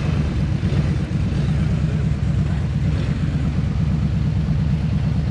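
Motorcycle engine running at low revs with a steady, pulsing rumble.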